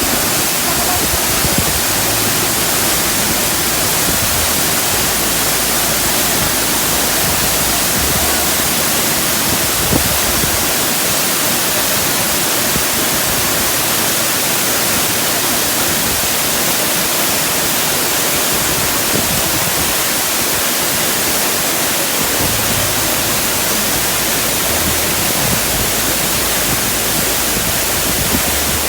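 Waterfall with a strong flow: water rushing and splashing in a loud, steady, unbroken noise.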